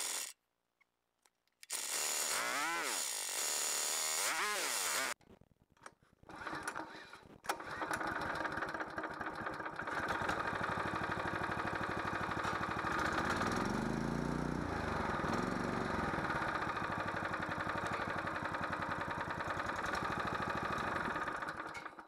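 Small spare go-kart engine being tried for the first time to see whether it works. It is cranked in two short attempts, then catches about seven seconds in and runs steadily, revved up and down briefly in the middle.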